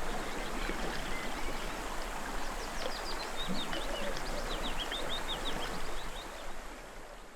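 Running stream water with small birds chirping in quick high notes; it fades out near the end.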